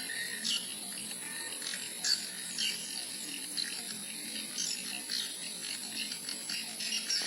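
Swiftlets twittering: a busy run of short, dry, downward-sweeping chirps, several a second, over a steady high-pitched whine.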